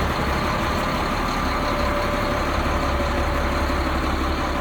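Cat C7 diesel engine of a Sterling fuel lube truck idling steadily.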